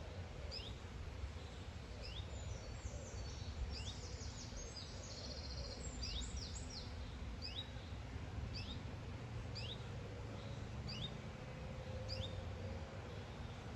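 Chiffchaff repeating a short rising call about once a second, with a brief flurry of rapid song from another bird in the middle. A low rumble of wind runs underneath.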